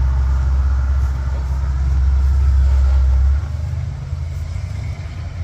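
Low, steady vehicle engine rumble that drops off suddenly about three and a half seconds in.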